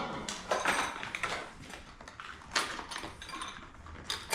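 Irregular rustling and light clicks and clinks of exhaust hardware, U-bolts and clamps, being dug out of their packaging.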